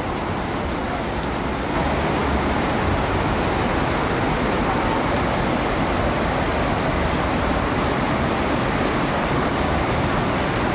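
Heavy rain pouring steadily, heard from under an awning; it grows slightly louder about two seconds in.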